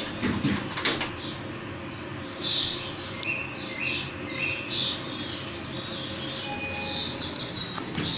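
Recorded rainforest soundscape of birds chirping and calling, played over an elevator cab's speaker above a steady low hum, with a couple of clicks about a second in.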